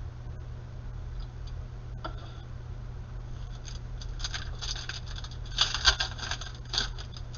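Plastic trading-card pack wrapper crinkling and being torn open, quiet at first, then crackling in dense, loud bursts about four to seven seconds in. A steady low hum runs underneath.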